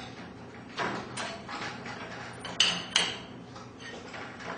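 Steel winding bars clinking and knocking in the winding cone of a garage door torsion spring as the spring is unwound a quarter turn at a time: a few sharp metallic clicks.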